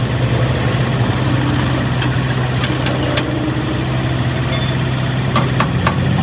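Truck engine idling steadily with a low hum. A few short metallic taps sound over it around the middle and several more near the end.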